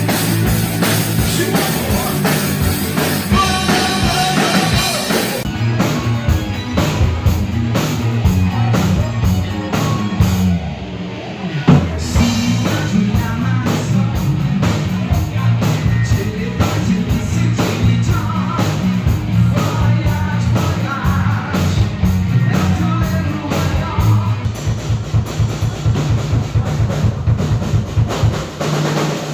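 Rock music with a driving drum-kit beat over bass and guitars; it thins out briefly about eleven seconds in, then comes back on a hard hit.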